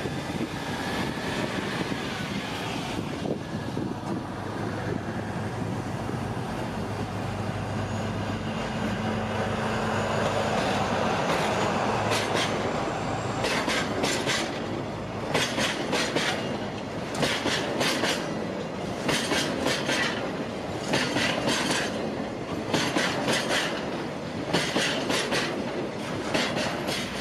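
KD55 diesel locomotive's engine running as it draws near. Then a train of tank wagons rolls past, its wheels clicking over the rail joints in regular clusters of knocks.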